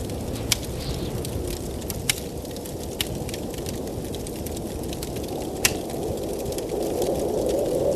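Wood fire crackling, with four sharp pops among many faint ticks, over the steady rush of blizzard wind, which swells a little near the end.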